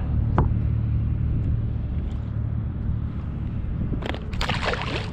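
Steady low rumble with a sharp click about half a second in. About four seconds in comes roughly a second of scuffling and flapping as a flounder slips from the angler's hold and flops into a landing net.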